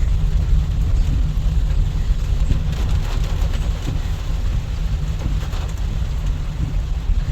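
Heavy rain falling on a moving car, heard from inside the cabin over the steady low rumble of the engine and tyres on a wet road.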